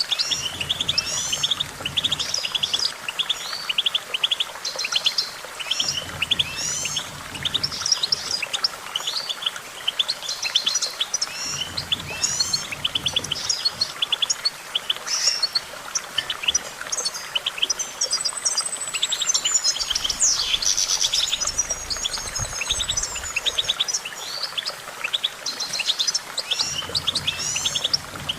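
European goldfinch singing: an unbroken rapid twittering of short chirps and trills, with a longer, higher sweeping phrase about two-thirds of the way through.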